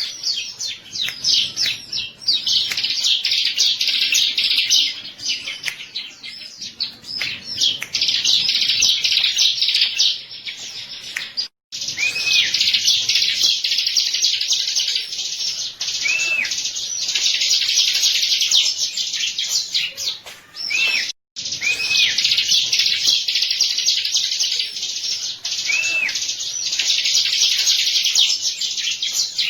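Ciblek (bar-winged prinia) singing a fast, dense, high chattering song of rapid chirps, with short arched whistles mixed in. The song breaks off abruptly twice, about 12 and 21 seconds in.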